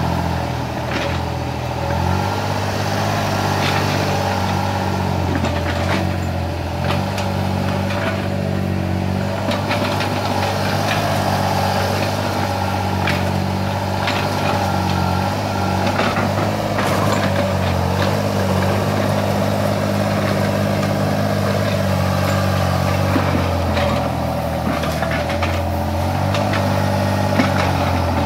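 Small hydraulic excavator's diesel engine running steadily under work, with scattered short knocks and clanks.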